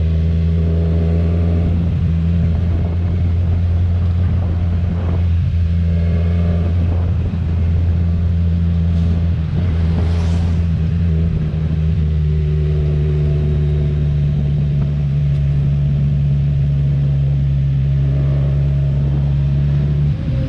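Kawasaki Z1000R's inline-four engine on its stock exhaust, running steadily under way with a deep, even drone. Its pitch shifts slightly about halfway through.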